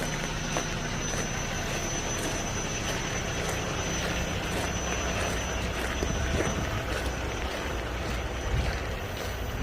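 Steady drone of idling diesel semi-truck engines, with a thin high whine over it.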